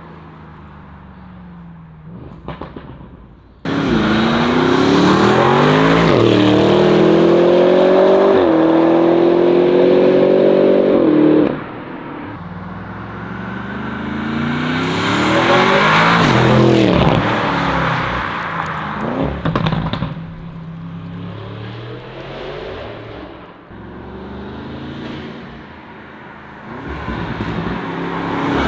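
Audi RS6 C8's twin-turbo V8, on BTM turbochargers and exhaust, accelerating hard through the gears: it comes in suddenly at full throttle a few seconds in, its pitch climbing and dropping back at each upshift, then cuts off abruptly as the throttle closes. A second surge rises and falls, followed by a few sharp pops as it backs off.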